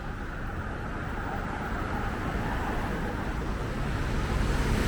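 Steady street traffic noise, growing slightly louder over the few seconds.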